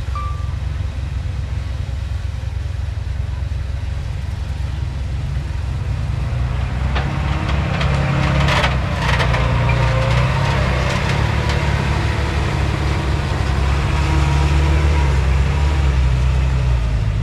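Diesel engine of heavy earthmoving machinery running steadily. It grows louder about halfway through, with a short burst of clanks and scraping around the middle.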